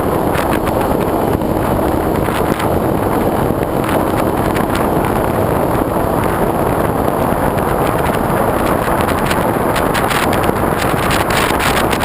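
Wind buffeting a GoPro mounted on the wing of a foam RC airplane in flight, mixed with the steady drone of the plane's motor and propeller.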